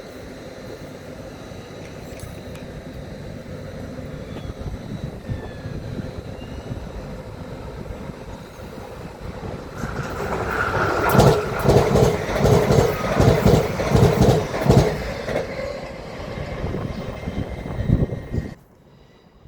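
A train running through the station without stopping. A rumble builds, then comes a loud, rhythmic clatter of wheels over the rail joints, about two beats a second, which cuts off suddenly near the end.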